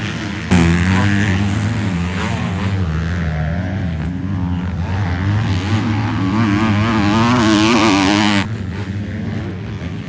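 Motocross bike engines racing on track, their pitch rising and falling as riders work the throttle, with more than one bike heard at once. The sound changes abruptly about half a second in and again near the end.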